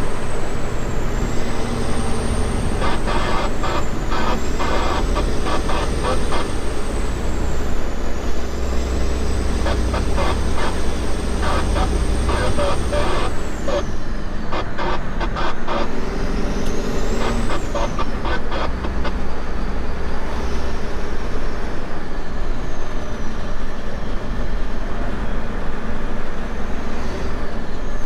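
Semi truck running on the road: a steady low engine rumble under a high whine that rises and falls, with bursts of rattling clicks through the middle.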